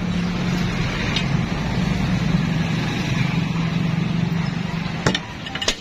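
A motor runs with a steady low hum and cuts out about five seconds in, followed by two sharp clicks.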